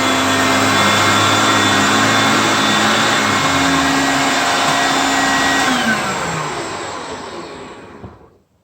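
Hoover Concept One vacuum cleaner running at full power, picking up pancake mix, then switched off about six seconds in, its motor winding down with a falling whine until it stops.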